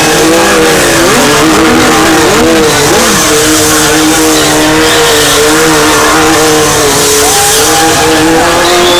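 Motorcycle engine held at high revs, very loud. Its pitch dips and rises a few times in the first three seconds, then stays steady.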